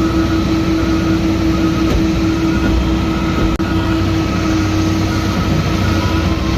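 CNG side-loader garbage truck running, a loud steady rumble with a constant whine held at one pitch.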